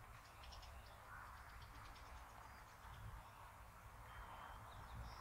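Faint, scattered high bird chirps over a low rumble of wind.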